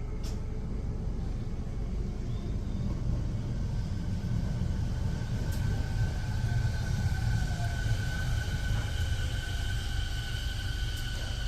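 Keio Line electric train giving a steady low rumble, with a steady high whine coming in a few seconds in.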